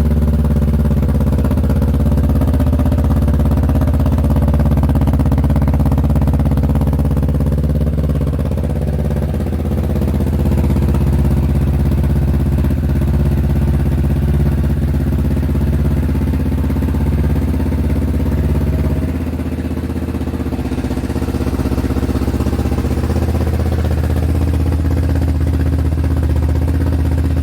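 Kawasaki Z650 motorcycle engine idling steadily through a cheap aftermarket muffler, just after starting; the level dips slightly about twenty seconds in, then picks back up.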